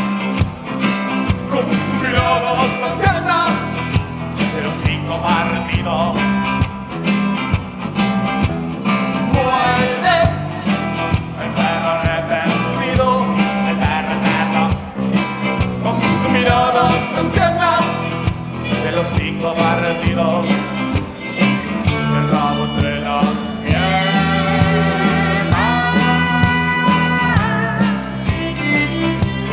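A rock band playing, with a steady beat of drums and bass under a wavering lead melody that holds long notes near the end.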